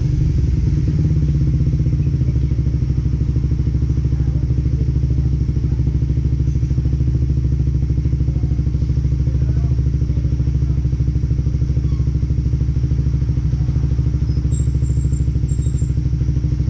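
Suzuki Raider FI motorcycle's single-cylinder four-stroke engine idling steadily at a constant pitch, with no revving.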